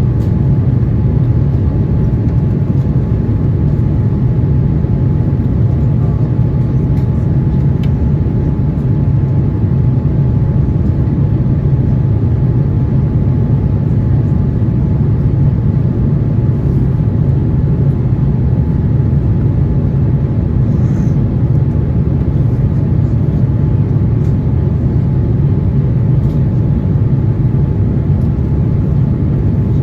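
Cabin noise aboard an Airbus A350-900: a steady, loud low rumble of engines and airflow, with a thin steady whine above it and a few faint ticks.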